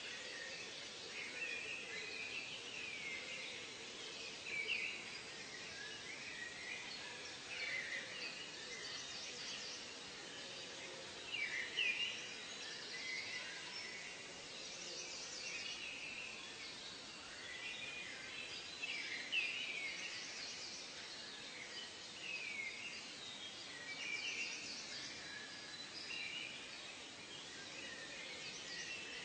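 Several wild birds calling in a natural soundscape, with short rising and falling chirps every second or so over a faint steady background hiss.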